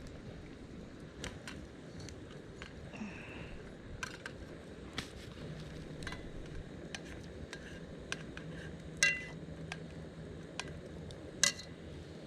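Metal camp cookware and utensils being handled: scattered light clicks and taps, with two louder ringing clinks about nine seconds in and near the end.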